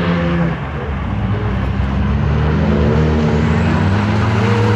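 Car engine revving hard: its pitch dips briefly just after the start, then climbs and wavers at high revs.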